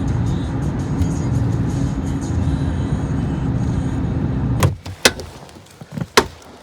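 Steady low road rumble of a car heard from inside, with music playing, cutting off abruptly about four and a half seconds in. Three sharp clicks follow over quiet.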